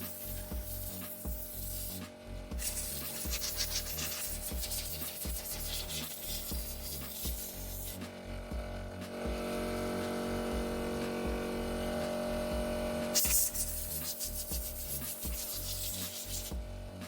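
Scratchy scrubbing and rubbing on a motorcycle as it is washed, over background music with a steady beat. The scrubbing breaks off briefly about two seconds in and again for several seconds in the middle, where the music comes forward.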